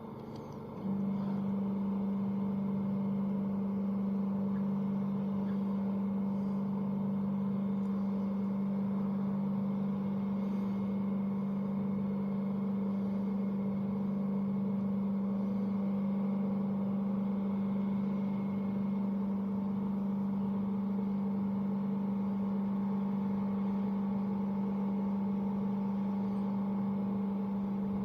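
Steady low machinery hum from a large supermarket, cutting in suddenly about a second in and holding on evenly, with faint bird chirps over it.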